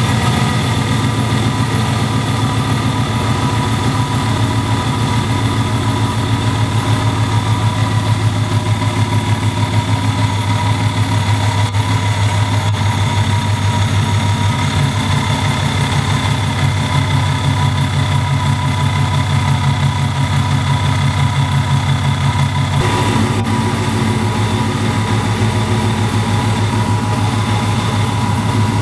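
Newly installed V8 engine in a Pontiac Trans Am idling steadily and loudly with a fast, even pulse, shortly after its first start.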